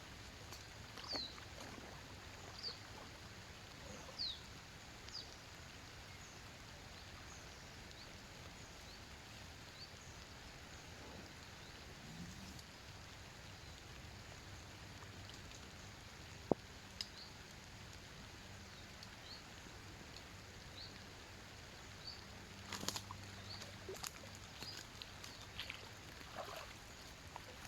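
Faint outdoor ambience: a steady low hiss with a few short, high, falling chirps scattered through it, a single sharp click partway through, and a cluster of small clicks and taps near the end.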